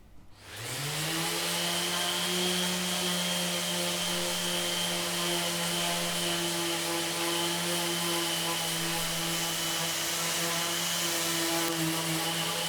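An electric power tool starting up, its motor whine rising over about half a second, then running at a steady speed with a hiss.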